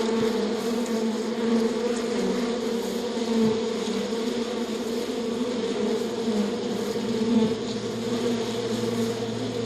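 Many insects buzzing together in a steady, fairly loud drone, swelling slightly now and then.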